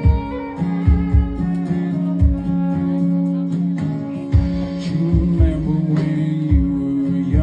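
A live band playing a slow country-style song: strummed guitar over held bass notes and a regular kick drum, with a voice or lead line entering about halfway through.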